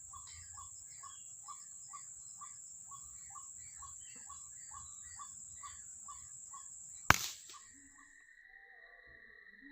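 White-breasted waterhen calls repeated rapidly and evenly, about three a second, over a steady high insect whine. About seven seconds in, a single sharp, loud shot fired at the birds cuts the calling off.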